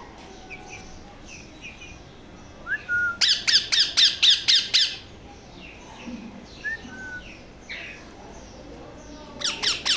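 Parrot chicks squawking: a rapid run of about eight loud calls starting about three seconds in, fainter short calls between, and another quick run of squawks near the end.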